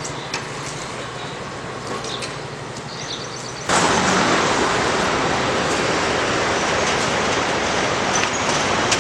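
Roadside traffic noise: a steady rush with a few faint clicks, which jumps suddenly louder about three and a half seconds in and stays there.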